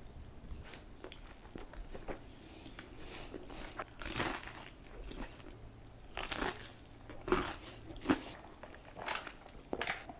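Close-miked eating: crunchy bites and chewing, in irregular crackly bursts with a few louder crunches.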